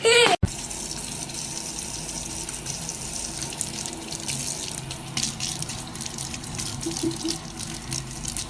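Running water from a tap, a steady splashing hiss with small clicks and splashes.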